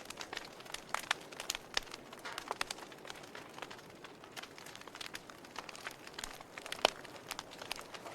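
Campfire crackling: irregular sharp pops and snaps over a soft steady hiss, with one louder pop about seven seconds in.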